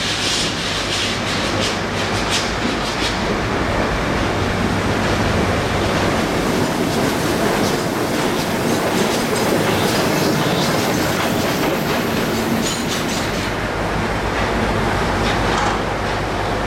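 Steam-hauled train running past on the rails, its wheels clattering over the rail joints with a steady rumble.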